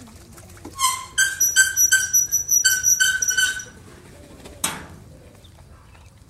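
A bird calling in a rapid run of high chirps, each on much the same pitch, for about three seconds. A single sharp click follows about four and a half seconds in.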